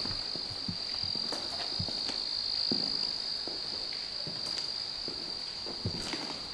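Steady, high-pitched chirring of crickets with no break, with soft, scattered footsteps of people walking.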